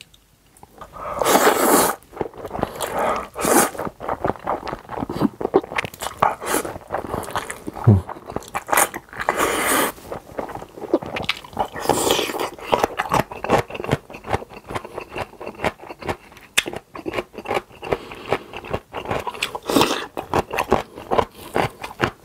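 Close-miked mukbang eating: bites and crunchy chewing of kimchi, with many crisp crunches one after another.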